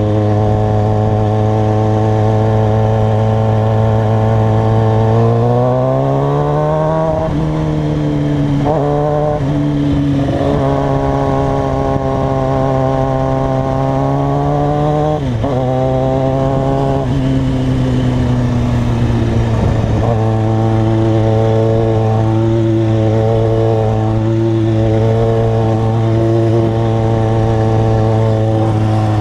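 Motorcycle engine running steadily, its pitch rising about five to seven seconds in, holding, then falling back and settling at a steady lower pitch for the second half.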